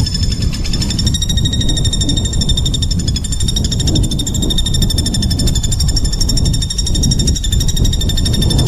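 A songbird giving a continuous, very rapid buzzing trill, the dense harsh 'tembakan rapat' used as masteran for training competition songbirds. A steady low rumble runs underneath.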